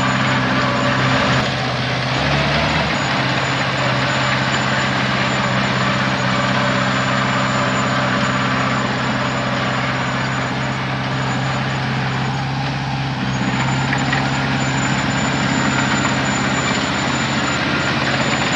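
Heavy diesel engine running steadily, with a thin high whine over it. The engine note shifts briefly about two seconds in.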